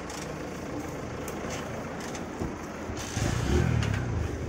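A car engine idling with a steady low hum. It swells louder for about a second around three seconds in, and a few faint clicks sound over it.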